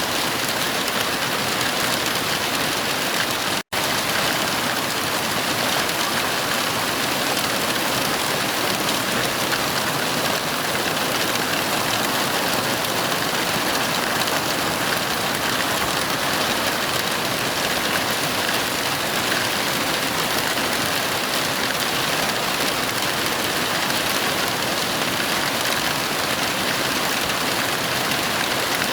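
Heavy rain falling steadily, an even hiss. It cuts out for a split second about three and a half seconds in.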